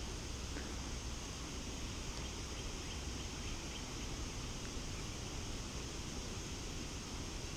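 Steady outdoor ambience: an even hiss over a low rumble, with a few faint, short, high chirps.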